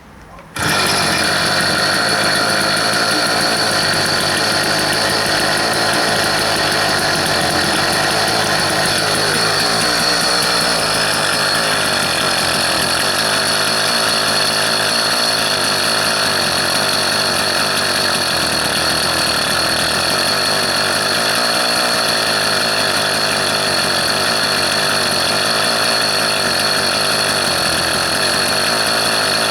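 Engine running steadily after its first 200 km, a dense mechanical running sound with a steady high-pitched whine over it; it comes in suddenly about half a second in and holds an even level.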